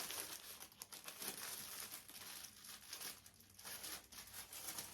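A sticky tack cloth being unfolded and handled, with an irregular crinkling, rustling and peeling sound.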